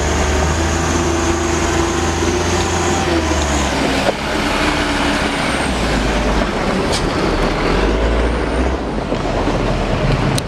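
Truck engine running steadily and loud, its low drone shifting in pitch a few times, with a sharp click about four seconds in and another about seven seconds in.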